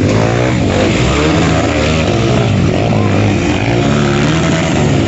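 Dirt bike engines running and revving hard, more than one at once, their pitch rising and falling over a dense noisy din.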